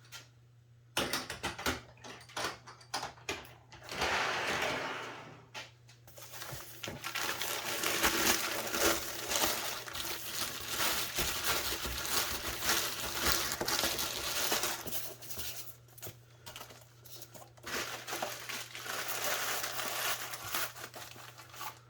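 Packaging being handled while a model subway car is unpacked: scattered clicks and knocks, then long stretches of rustling and crinkling.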